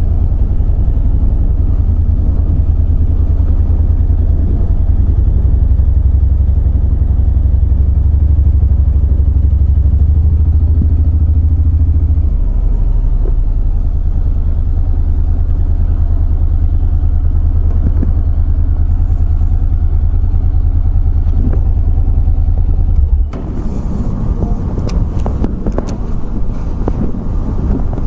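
Motorcycle ride heard through a microphone inside the helmet padding: a loud, steady low rumble of engine and wind, which shifts down about halfway through. Near the end it changes abruptly to a thinner sound with more hiss and a few clicks.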